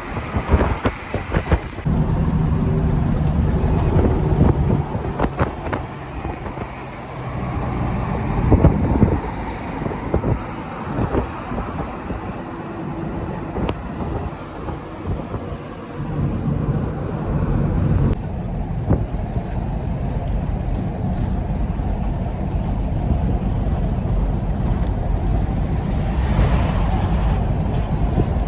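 A truck's engine running on the road, a steady low rumble with scattered knocks and rattles.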